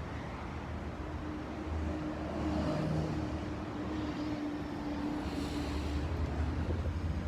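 Steady low rumble of a motor vehicle engine, with a faint steady hum that comes in about two seconds in and fades near six seconds.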